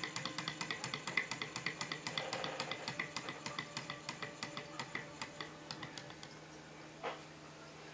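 Small alpha-type Stirling engine with a dynamo attached, clicking rhythmically as it runs, about five clicks a second at first, then slowing and fading as it winds down to a stop. A single knock about seven seconds in.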